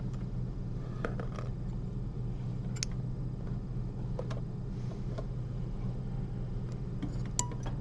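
Steady low room hum with a few scattered light clicks from metal surgical instruments handled during suturing.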